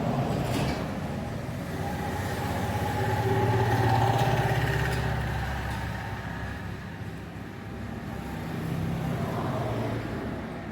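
A motor vehicle engine running with a steady hum, swelling louder about four seconds in, easing off, and swelling again near the end.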